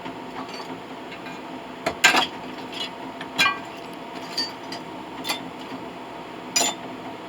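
Pieces of scrap brass clinking against each other as they are handled and sorted: about six separate sharp metallic clinks with a brief ring, the loudest about two seconds in.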